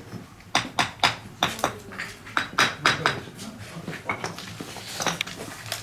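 Ceramic ware clinking and knocking together, a quick run of sharp clinks for a couple of seconds, then a few more scattered ones.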